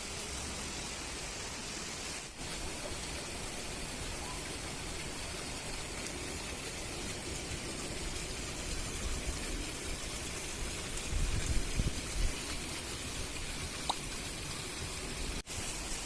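Steady heavy rain falling, an even hiss that breaks off for an instant twice. A few dull low bumps come about eleven to twelve seconds in.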